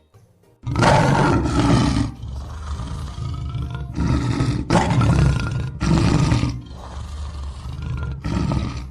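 Lion roaring: a series of deep, loud roars, several long ones with quieter stretches between them.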